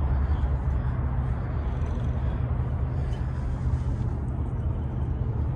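Steady low rumble of vehicle engines running, with outdoor background noise.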